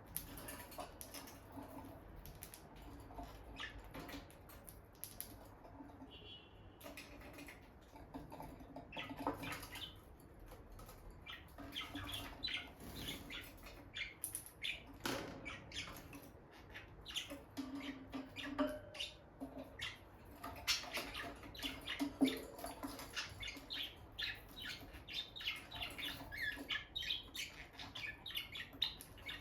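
Peach-faced lovebirds giving soft, quick chirps and twitters, mixed with small clicks and scratching from their moving about. The chirping grows busier in the second half.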